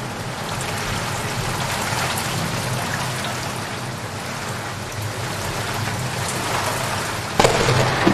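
Steady rain falling, an even hiss of drops, with a sudden thunderclap breaking in near the end.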